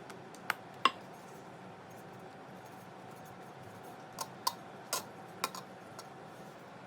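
Light clinks and taps of kitchen utensils on dishes, six short sharp ones: two just before one second in, four more from about four to five and a half seconds in, over a faint steady hum.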